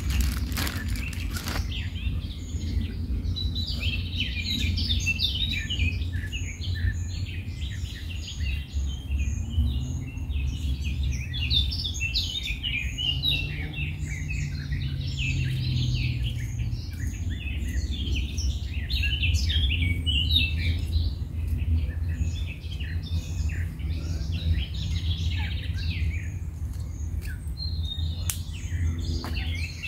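Woodland birds chirping and singing, many short calls overlapping, over a steady low rumble. A faint low hum rises and fades in the middle.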